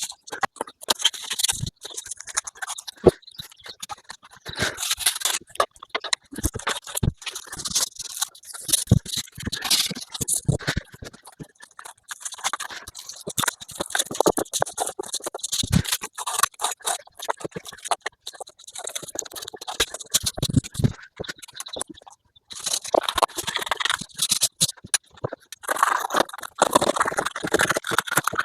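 Carpet insulation tiles being worked onto a boat's cabin wall: irregular scraping and rustling in patches of a second or two, with scattered knocks and clicks.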